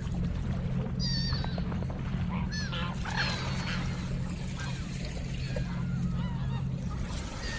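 Ducks quacking and calling several times in quick succession, over a steady low hum.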